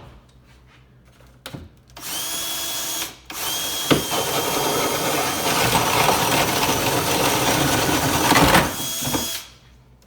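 Power drill drilling mounting holes into a wall: a short burst of about a second, a brief stop, then a steady run of about six seconds that stops near the end.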